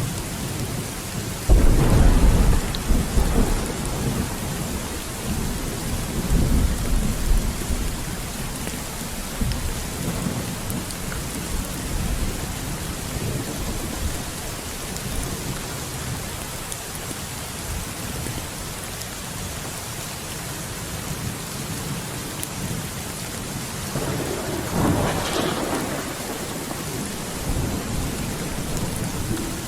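Steady heavy rain with thunder: a loud deep rumble of thunder breaks out a second and a half in and rolls on for several seconds, and a second, shorter peal comes near the end.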